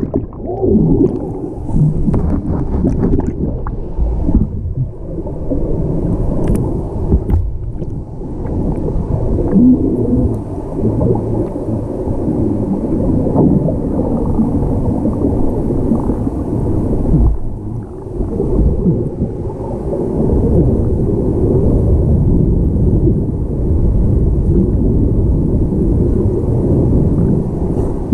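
Muffled rumble and gurgling of water heard through a camera held underwater below a waterfall, with the high sounds cut away.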